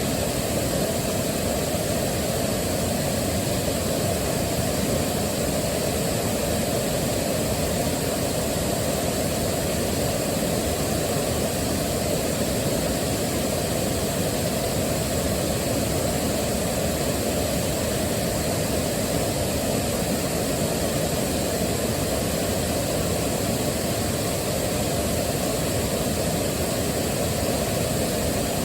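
Waterfall rushing water, a steady unbroken roar heaviest in the low and middle range.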